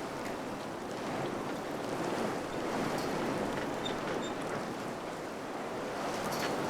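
Steady wind blowing, a dense rushing noise that swells and eases a little, with a few faint short ticks or rattles.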